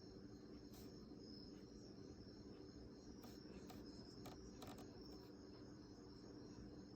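Near silence: faint room tone with a steady high-pitched whine and a low hum, and a few faint soft ticks.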